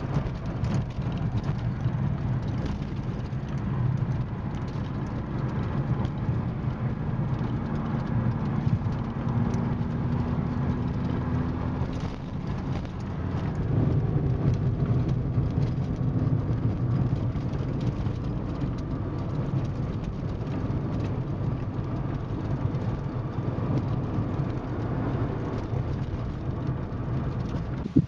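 A car driving: a steady low engine hum and road rumble, with the engine's pitch rising twice as it picks up speed.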